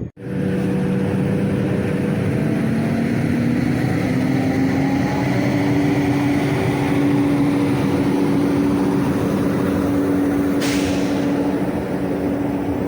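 A train running through the station. Its motor whine rises slowly and steadily in pitch over heavy running noise, as when the train is gathering speed, and there is a short hiss about three-quarters of the way through.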